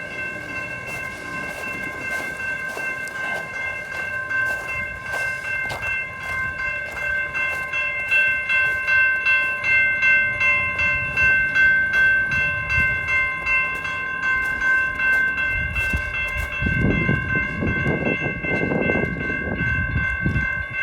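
Railroad crossing warning bell ringing continuously in a fast, even rhythm, set off by a track-circuit malfunction with no train approaching. A low rumble swells up under it near the end.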